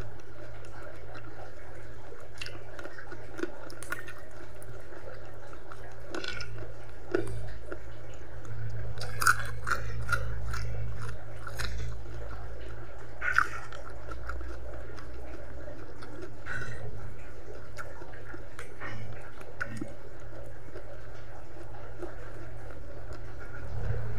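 Close-miked chewing and wet mouth smacks of someone eating chicken feet in chili sauce with rice, with scattered short clicks, a few louder ones about nine and thirteen seconds in, over a steady low hum.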